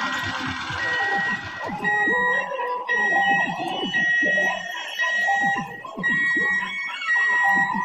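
Level-crossing warning alarm beeping about once a second, each high electronic beep lasting about half a second, with lower tones changing between the beeps. A rushing noise dies away about two seconds in.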